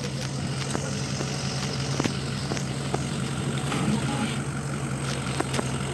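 A vehicle engine idling steadily, with scattered short clicks and knocks over it.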